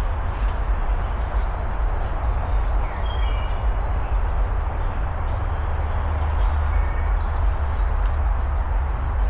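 A steady wash of outdoor noise with a strong low rumble, with a few short bird chirps high above it now and then.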